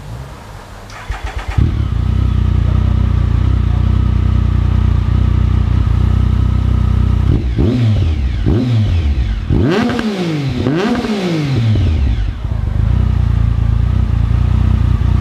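A 2014 Triumph Speed Triple's 1050 cc inline-three, through dual high-mount Arrow exhausts with no dB killers, is cranked for about half a second, catches, and settles into a loud idle on a warm engine. About halfway through it is revved four times, two short blips and then two higher revs that rise and fall, before dropping back to idle.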